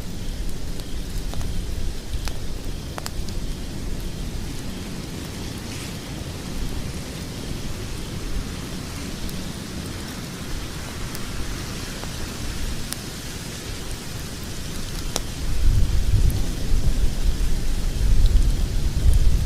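Log fire burning in a fireplace: a steady low rumble and hiss with a few sharp, separate crackles. The low rumble swells louder about three-quarters of the way through.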